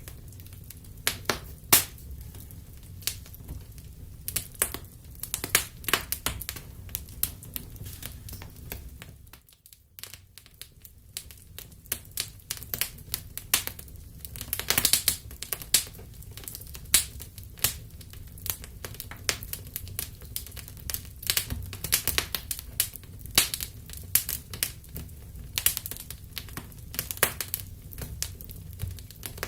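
Wood fire crackling in a fireplace: irregular sharp pops and snaps over a low steady rumble. The sound drops away briefly about nine and a half seconds in, then the crackling resumes.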